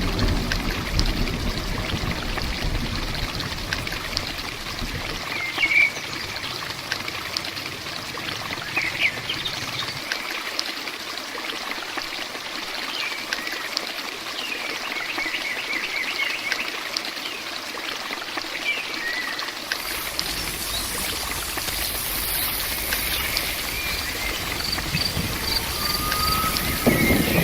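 Steady heavy rain with water running and trickling, and birds chirping now and then. A low rumble dies away over the first few seconds, and about two-thirds of the way in a high, insect-like hiss comes in.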